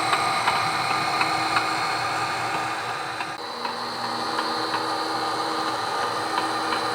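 HO scale model diesel locomotive with a sound decoder running along the layout: a steady engine hum from the decoder speaker mixed with the whine of the small drive motor, with light clicks at regular intervals.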